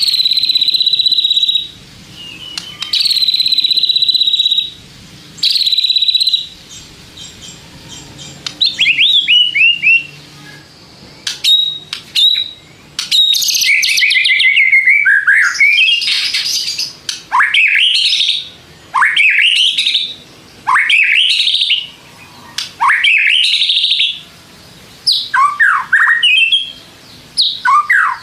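White-rumped shama (murai batu) singing. It opens with three long, flat, buzzy notes. From about a third of the way in it switches to fast, varied whistled phrases with notes sweeping up and down.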